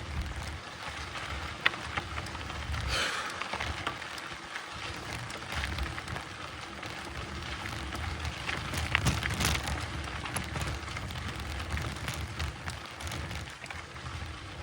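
Mountain bike tyres rolling over a dirt trail, a steady crunching hiss with a rumbling low end and scattered small clicks and rattles.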